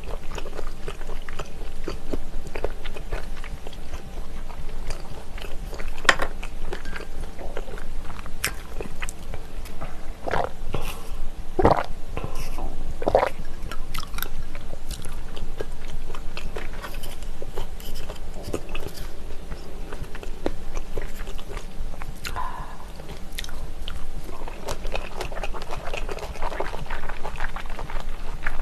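Close-miked chewing and biting of spicy pressed chicken-feet slices (dakbal pyeonyuk) with kimchi: wet mouth sounds with many small clicks and crunches, and a few louder strokes near the middle.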